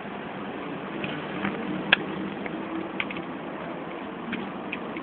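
Hong Kong double-decker tram running: a steady rumble with a few sharp clacks, the loudest about two seconds in and another about a second later.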